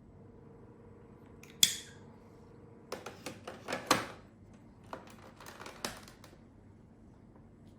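Handling noises around a capsule coffee machine: one sharp click, then a run of clicks and light clatter about three seconds in and again a couple of seconds later.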